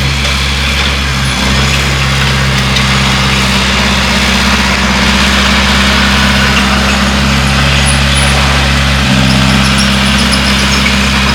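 Bulldozer's diesel engine running steadily under load, its note shifting a little about a second in and again near the end, with a rough clattering hiss over it.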